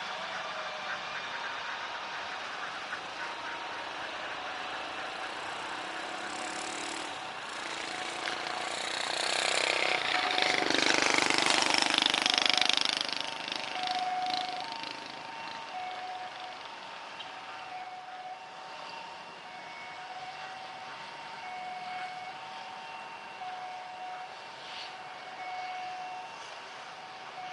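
Outdoor ambience with a vehicle passing: a rushing noise swells to its loudest around the middle and then fades over a few seconds. Short steady tones repeat faintly in the background.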